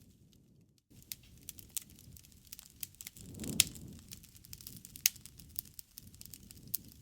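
Wood fire in a fireplace crackling: scattered sharp pops and snaps over a low rumble of flame, starting about a second in after a brief silence. The loudest pop comes about halfway through.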